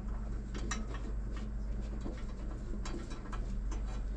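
A few light, scattered clicks and taps of metal tools and bolts being handled while an exhaust manifold bolt is threaded into the head, over a steady low hum.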